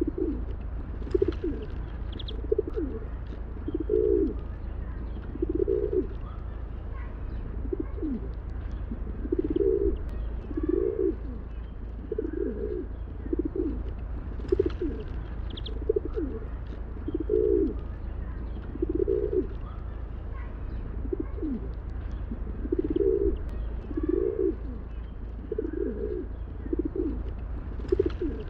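Pigeons cooing over and over, low calls every second or two, over a steady low rumble, with faint chirps of small birds now and then.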